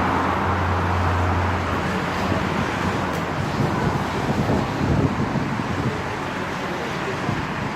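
Road traffic passing on a busy main road, with steady tyre and engine noise. A low engine hum from a passing vehicle holds through the first couple of seconds and then fades.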